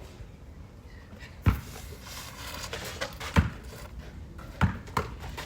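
A basketball bouncing on an indoor court: four sharp thuds, one about a second and a half in, one a couple of seconds later, and two close together near the end.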